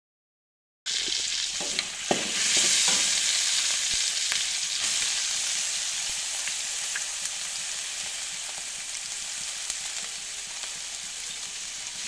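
Ground pork and chopped salted mustard greens sizzling in hot oil in a wok, stirred with a metal spatula that clicks and scrapes against the pan. The sizzle starts suddenly about a second in, grows louder a second later, then slowly dies down.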